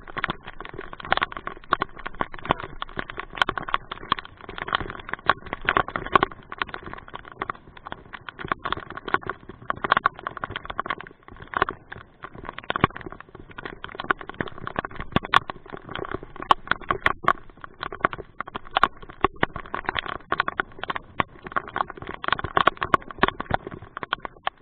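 Rain falling hard, its drops hitting a hard surface close to the microphone in a constant patter of irregular sharp taps.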